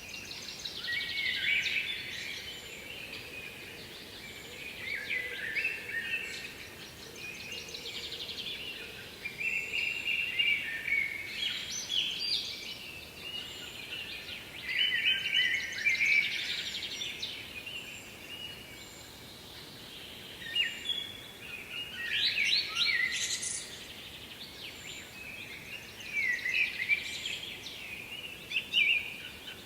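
A songbird singing short phrases over and over, one every few seconds, over a faint steady hiss.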